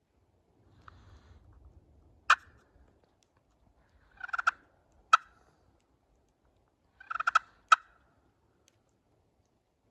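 Wild turkey gobbler gobbling: three loud, rattling gobbles, about two to three seconds apart.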